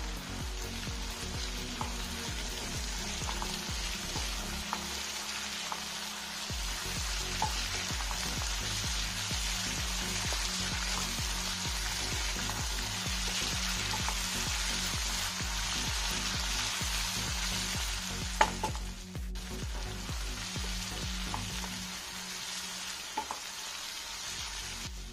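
Sliced onions, tomatoes and green chillies sizzling steadily in oil in a frying pan, stirred with a wooden spatula that gives light scrapes and taps now and then. The tomatoes are being fried until they turn slightly soft.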